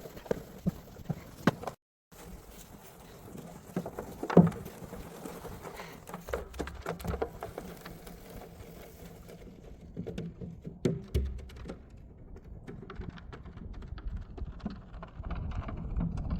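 Irregular knocks and clopping steps, the loudest a sharp knock about four seconds in, with gusts of wind buffeting the microphone now and then. The sound cuts out completely for a moment about two seconds in.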